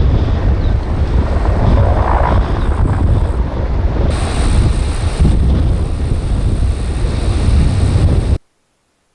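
Heavy wind buffeting the microphone: a loud, rough low rumble that cuts off suddenly about eight seconds in.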